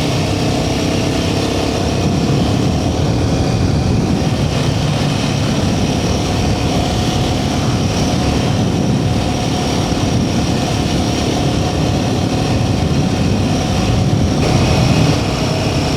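Royal Enfield Himalayan 450's single-cylinder engine running steadily as the motorcycle is ridden along, with an even level throughout.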